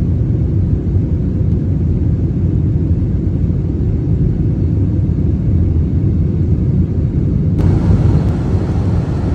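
Airbus A321-200 cabin noise in the climb after takeoff: a steady, loud low rumble of the jet engines and airflow, with more hiss coming in at about seven and a half seconds.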